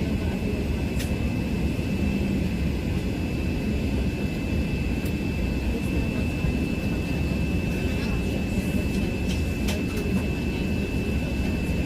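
Steady engine and air noise inside the cabin of an Airbus A380-800, a low even rumble with a thin high whine over it and a few faint clicks.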